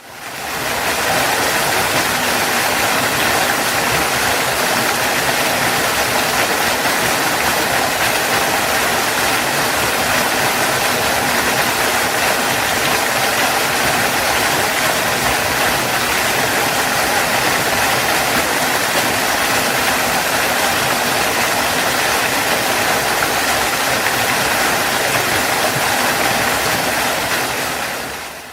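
Waterfall: water pouring and splashing in a steady, even rush. It fades in at the start and fades out near the end.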